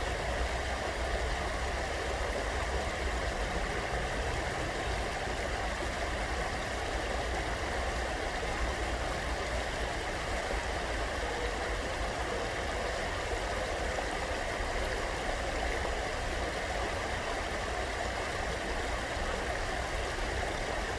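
Steady rush of running water from a park stream, with a low rumble underneath.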